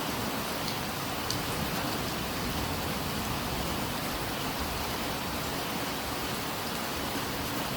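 Steady rain falling, with a couple of sharper drop ticks about a second in.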